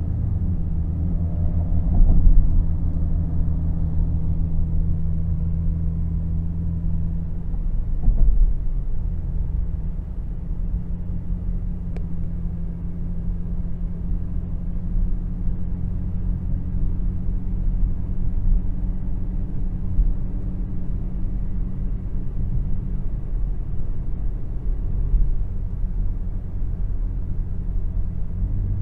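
A car engine running steadily with a low rumble, with two brief louder swells about two and eight seconds in.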